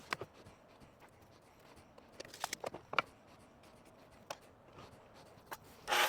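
A few scattered light clicks and taps of small things being handled, with a quick run of them about two and a half to three seconds in. A louder sound starts right at the end.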